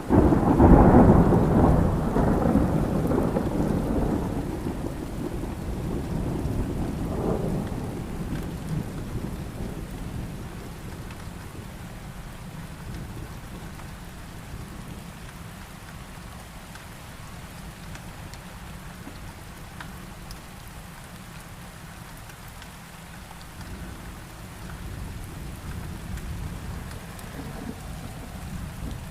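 A loud thunderclap breaks right at the start and rolls away over about eight seconds, with a second crack near seven seconds, over steady heavy rain. A softer distant rumble swells and fades near the end.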